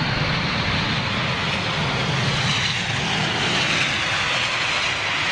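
Boeing 747 airliner landing, its jet engines giving a steady, loud rushing noise with a faint high whine on top.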